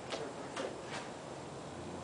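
42-inch CEC Georgian ceiling fan running, with a few light ticks about half a second apart; its blades are out of balance and it wobbles.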